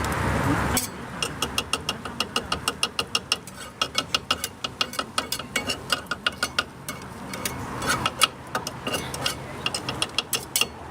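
A fast, even run of sharp clicks, about five a second, that becomes sparser and irregular near the end; louder street noise cuts off under a second in.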